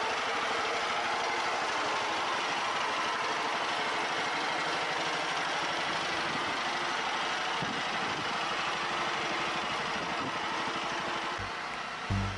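Homemade garden tractor's engine running steadily at a constant speed. It eases off slightly near the end.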